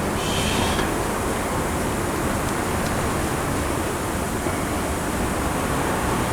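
Differential gear oil pouring steadily out of a Suzuki Carry's rear differential drain hole into a catch pan.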